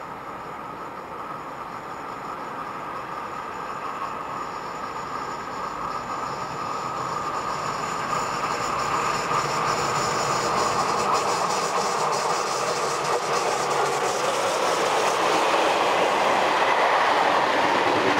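Electric-hauled freight train of tank wagons approaching and passing close by: the rolling noise of wheels on the rails grows steadily louder as the wagons go past.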